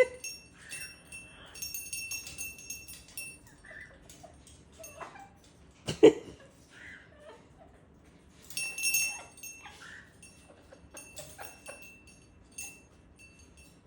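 A small bell on a parrot's toy jingling in two bursts as the bird plays with it, with a single sharp knock about six seconds in and a few soft parrot sounds in between.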